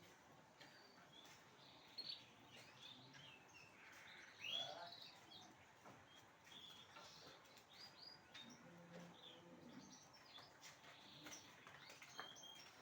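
Songbirds chirping and twittering faintly in quick, short notes at varying pitch, with a louder burst of song about four and a half seconds in.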